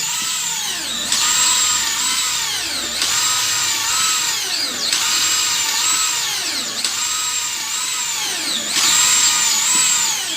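Maktec 13 mm electric drill driving a PCP hand air pump through a crank mechanism: the motor whine drops in pitch as it loads up on each pump stroke and climbs back, about one cycle every two seconds.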